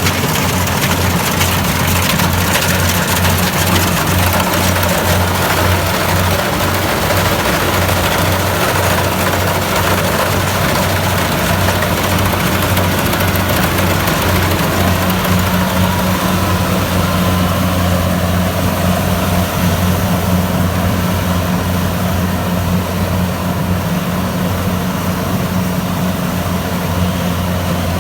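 Kubota DC-70 Plus combine harvester's diesel engine running steadily while harvesting, a constant low drone with a broad mechanical hiss over it.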